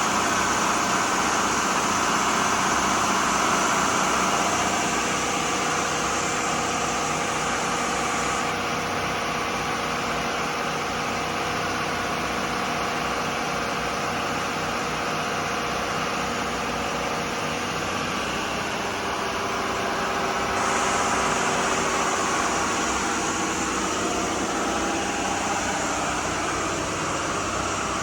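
Turbocharged marine diesel engines of a Bayliner 4788 motor yacht running steadily underway. The sound eases slightly about five seconds in and grows again about twenty seconds in.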